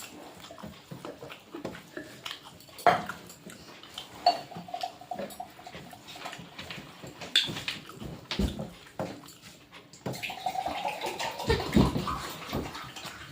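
Eating at a plate: scattered clicks and light knocks of hand and dish with chewing, and a drawn-out high whine twice, the longer one near the end.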